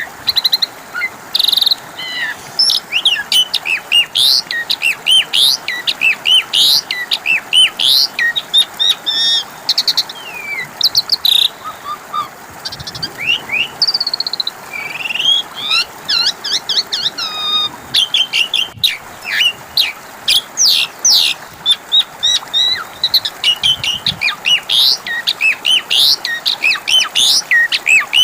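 Asian pied starling (jalak suren) singing a fast, continuous stream of varied chirps, rising and falling whistles and rattling notes.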